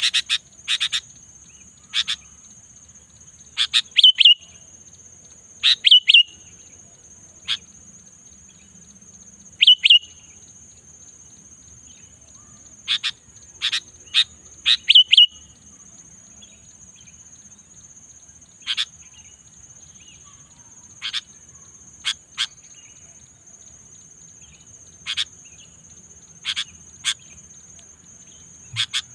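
Sooty-headed bulbul (kutilang) giving short, sharp chirping calls, singly or in quick pairs and clusters every one to three seconds. A steady high-pitched insect trill runs underneath.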